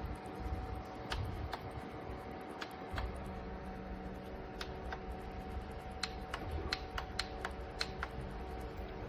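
A small fan motor hums steadily. Irregular sharp clicks and taps come over it, more often in the second half.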